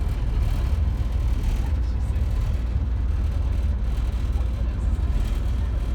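Steady low rumble of a passenger ferry's engines running while the boat sits at or pulls away from the pier.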